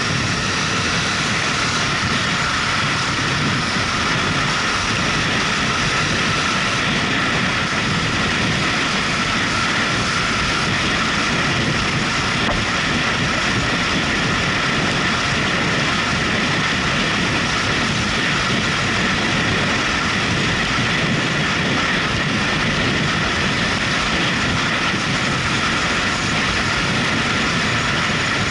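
Motorcycle being ridden at a steady speed: engine and rushing road noise in one even, unbroken drone.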